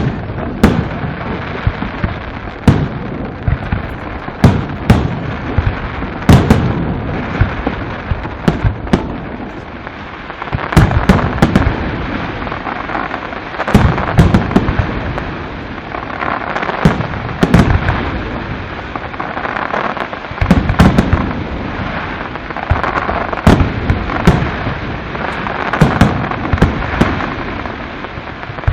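Aerial fireworks display: a rapid, irregular series of loud bangs from shells bursting, over a continuous crackling hiss.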